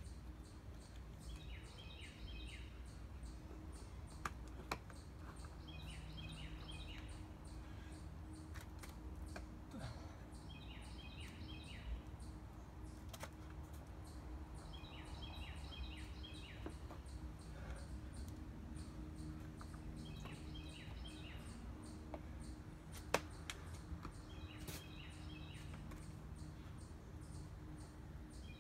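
A songbird repeating the same short phrase of quick falling notes about every four to five seconds over faint outdoor background noise. A few sharp clicks stand out, the loudest about two-thirds of the way through.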